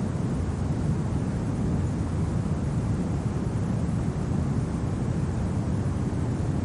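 Steady, low rumbling wind in a winter ambience, an even noise with no gusts or breaks.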